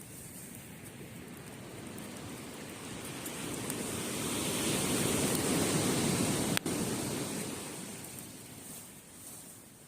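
Sea waves surging onto a beach: the wash swells to a peak about halfway through, then drains away. A single sharp click stands out about two-thirds of the way in.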